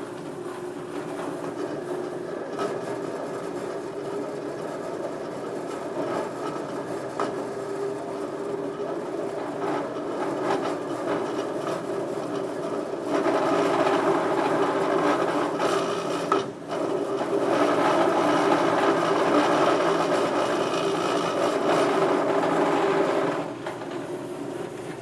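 Band saw running at low blade speed, about 100 feet per minute, its blade cutting steel. The sound is a steady mechanical cutting noise that grows louder from about halfway through, dips briefly, then holds until shortly before the end.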